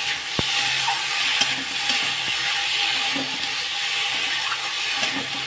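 Paneer, potato and poi greens frying in oil in a kadhai, sizzling steadily while a spatula stirs them round the pan, with a light click of the spatula on the metal about half a second in.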